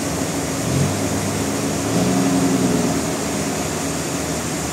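Sawmill machinery running steadily, with a short rise in pitch about a second in and a louder stretch around two to three seconds in.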